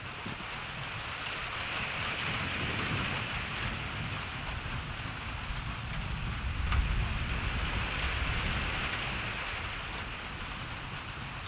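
Steady rain falling, with a low rumble of thunder that swells through the middle and peaks about seven seconds in, marked by a brief sharp snap, then slowly fades.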